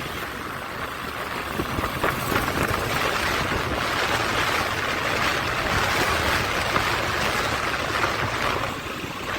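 Motorcycle riding at road speed: steady wind and road noise on an action camera's microphone, with the engine running underneath.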